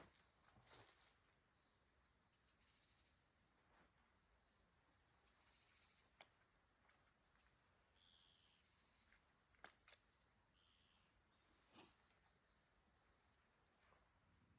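Faint, high-pitched trilling of crickets or other insects, with a few soft clicks scattered through it.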